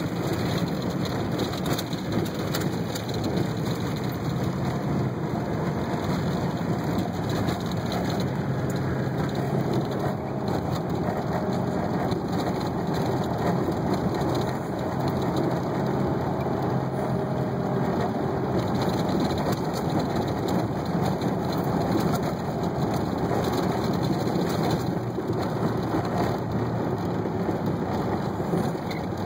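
1990 Jeep Cherokee driving off-road in the rain: a steady low engine drone under a constant rushing noise of rain and the moving vehicle.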